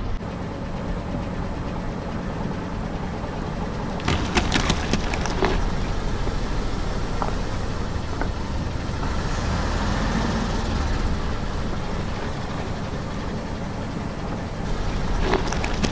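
Car engine running steadily at low speed, with a burst of crackling and snapping about four seconds in and again near the end as the tyres crush crunchy objects.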